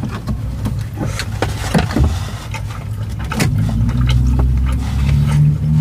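Close-up chewing and wet mouth clicks as food is eaten by hand. A steady low vehicle engine hum builds from about two seconds in and becomes the loudest sound.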